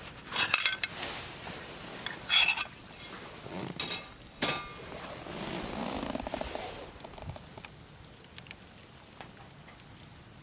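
Metal camp cookware clinking as it is handled, with several sharp knocks in the first few seconds, then softer handling noise and a few faint ticks.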